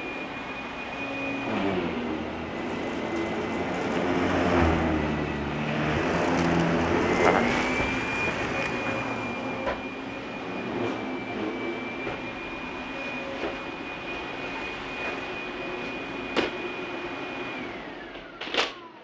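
Russell Hobbs Athena 2 Pet upright vacuum cleaner running on a thick, fluffy rug. The motor's high whine dips in pitch about two seconds in and climbs back a few seconds later as the brush roll struggles with the deep pile. Near the end it is switched off and the whine falls away, with a couple of sharp clicks.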